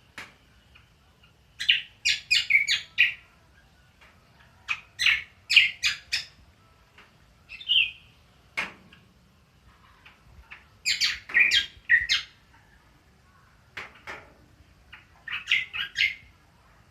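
Cucak kombo bird singing its 'ngriwik' chatter: short bursts of rapid, sharp notes, about five bursts a few seconds apart.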